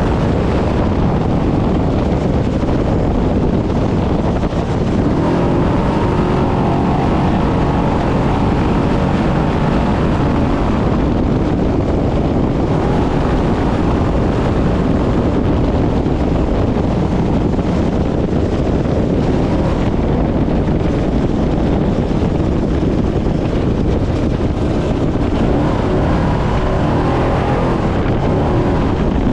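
Brenthel Class 6100 trophy truck driving fast over desert terrain: engine running hard under the steady, loud rush of wind noise on the microphone.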